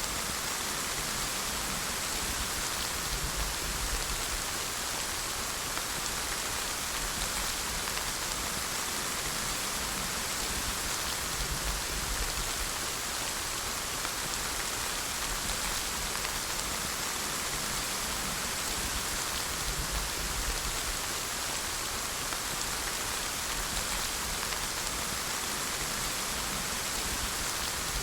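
Steady rain falling, an even hiss of many drops with no let-up, and a faint low rumble now and then.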